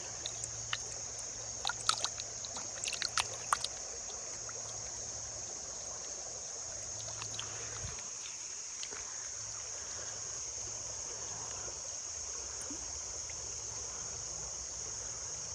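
Steady high-pitched drone of crickets or other insects, with a few sharp clicks and taps in the first four seconds as small hard objects such as glass pieces and stones are handled.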